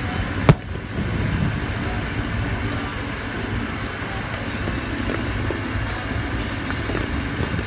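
Aerial firework shells going off: one sharp bang about half a second in, and a few fainter pops near the end, over a steady background din.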